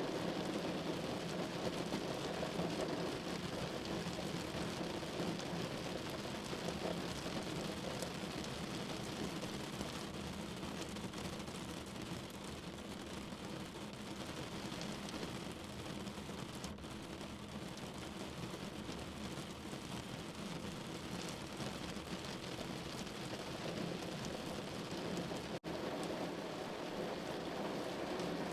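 Steady rain falling on a window, an even hiss with faint scattered drop ticks, broken by a momentary gap near the end.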